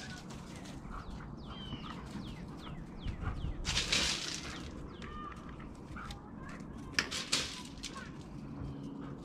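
Small birds chirping on and off, many short falling chirps, with two brief rustling noises about four and seven seconds in.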